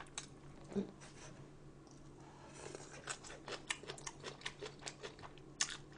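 Quiet close-up eating sounds: faint chewing with a run of small clicks and crunches, several a second, starting a couple of seconds in.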